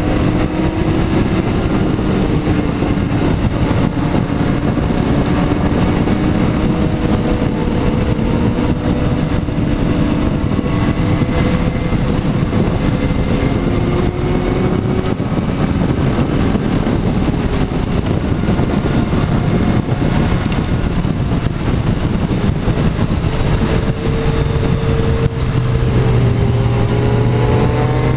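Kawasaki Z-series motorcycle engine running at road speed, with heavy wind rush on the microphone; its pitch rises near the end as it accelerates.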